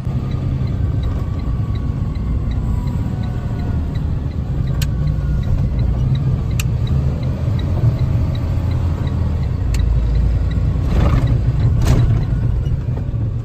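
Box truck heard from inside the cab while driving: a steady low engine and road rumble, with a faint rapid ticking over the first half and a few sharp knocks.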